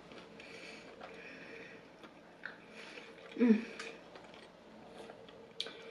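A person chewing grilled meat close to the microphone, with soft wet mouth noises and small clicks. A short hummed "mm" comes about halfway through.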